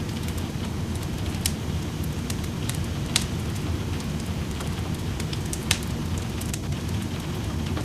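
Steady rain with a wood fire crackling over it, sharp pops standing out about one and a half, three and five and a half seconds in.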